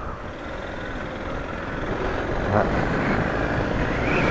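Suzuki DR650's single-cylinder engine pulling on the road, its carburettor freshly repaired. The engine gets louder as the bike accelerates over the last couple of seconds.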